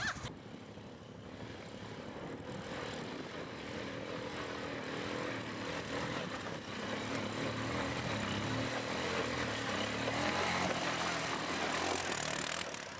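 An engine running steadily, its pitch wavering a little, growing slowly louder.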